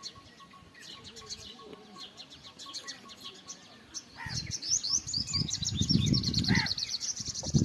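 Small birds chirping and tweeting, thin and high-pitched, becoming a dense, rapid twittering about four seconds in. A low rumbling noise comes in at the same time.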